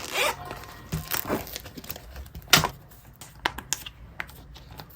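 Crinkling plastic as a card is handled and slid into a binder's plastic sleeve, with scattered light clicks and one sharper snap about two and a half seconds in.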